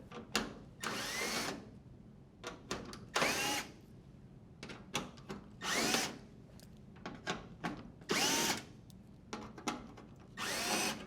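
Cordless drill driver backing out screws: five short spins about two and a half seconds apart, the motor whine rising in pitch in each, with light clicks between them.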